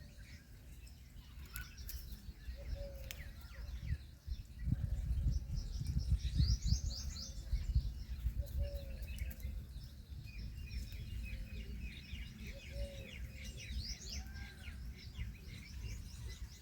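Several birds calling: high chirps and quick trilled series, with a short low call repeated about every two seconds. A stretch of low rumbling noise, the loudest sound, comes a few seconds in.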